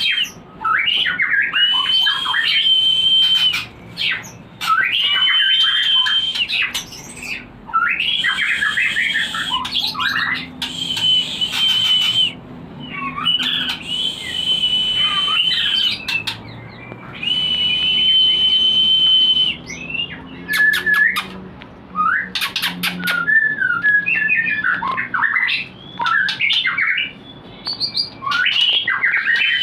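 White-rumped shama (murai batu) singing in repeated phrases. Many phrases end in a held, level high whistle lasting a second or two, with quick chattering notes between them. A run of sharp clicks comes about two-thirds of the way through.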